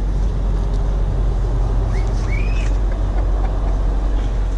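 Dodge Challenger R/T's V8 idling steadily, a low, even hum.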